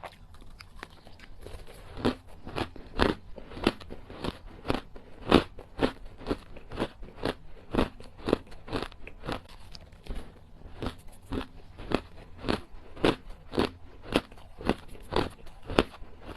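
Small pieces of hard ice crunched between the teeth, close to the microphone: a steady run of sharp crunches, about two or three a second.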